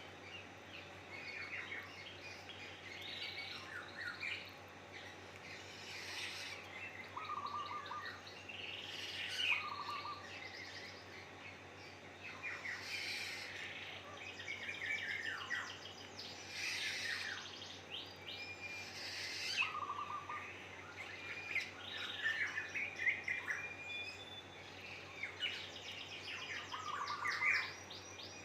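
Wild pelatuk sampit calling in short bursts of quick chirps every few seconds, some notes dropping low and others higher and thinner.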